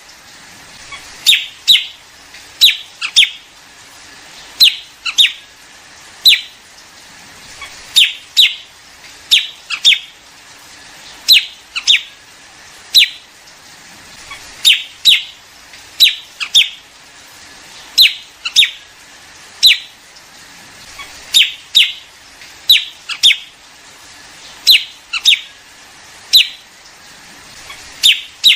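Liếu điếu bird giving repeated short, sharp chirps, mostly in quick pairs or threes every second or two. This is a recorded lure call used by bird trappers to draw in a flock.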